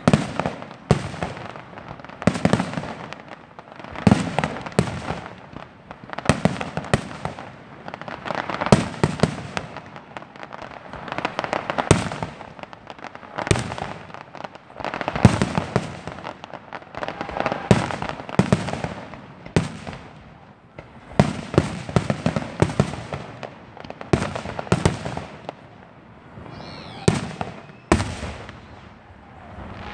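Aerial fireworks shells bursting one after another in a steady run of booms, about one or two a second, with crackling between them.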